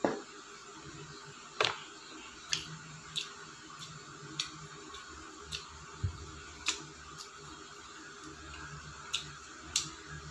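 Close-up chewing of fried chicken, with a dozen or so sharp, wet mouth clicks and lip smacks at uneven intervals. There is a single knock right at the start.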